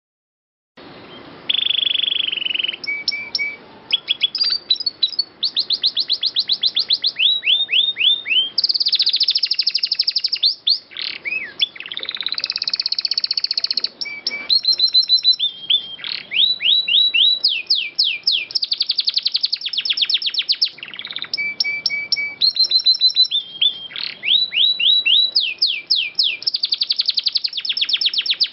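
Domestic canary singing a long, unbroken song of fast rolling trills and rapid repeated sweeping notes, starting about a second in after silence.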